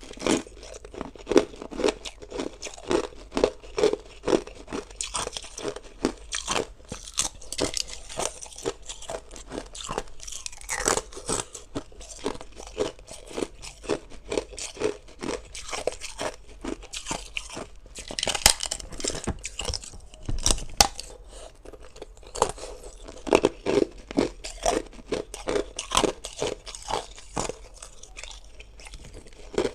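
Hard ice being bitten and chewed close to the microphone: a dense run of irregular sharp crunches, several a second.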